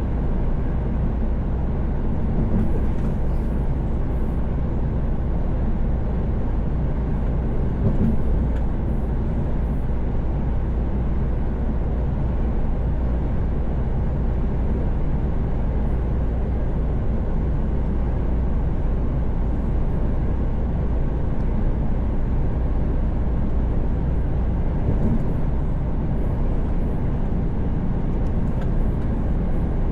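Mercedes-Benz Actros truck cruising at highway speed: a steady low engine drone mixed with tyre and road noise, heard from the cab.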